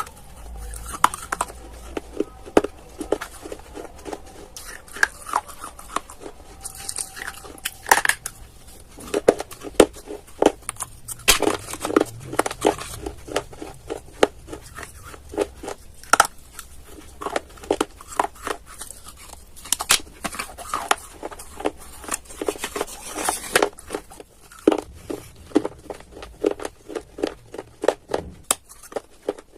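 Clay pieces being bitten and crunched close to the microphone: a dense, irregular run of sharp cracks and crunches.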